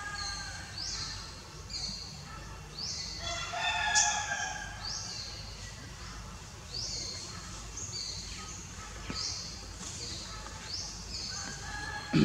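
Birds calling: a high, falling call repeats about once a second. A louder, lower call about three to four seconds in is followed by a sharp click.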